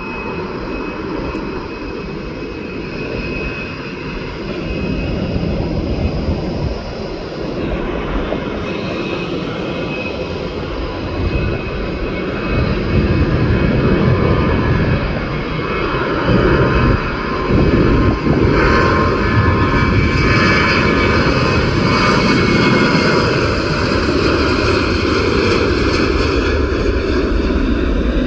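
Boeing 737 jet engines running, a steady roar with high whining tones, which grows louder about twelve seconds in and stays loud.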